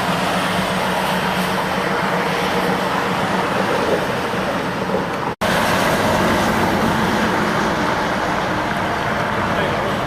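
Heavy road traffic with trucks passing: a steady wash of engine and tyre noise, with a low engine hum in the first half. The sound cuts out for an instant about halfway through, then carries on.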